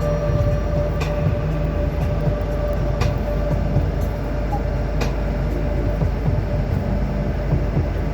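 A vehicle on the move: a steady low rumble, with a faint sharp click about every two seconds.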